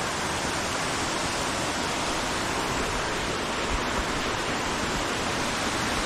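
Waterfall and stream rushing steadily.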